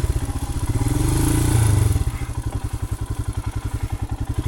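Royal Enfield Himalayan's 411 cc single-cylinder engine running at low revs off-road, rising briefly about a second and a half in, then dropping about two seconds in to a quieter, evenly pulsing near-idle beat.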